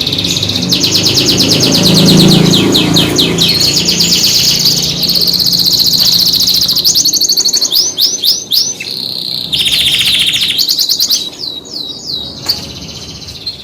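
Scotch Fancy canaries singing: fast rolling trills alternate with runs of quick rising whistled notes and held high notes. A low rumble runs underneath for the first few seconds.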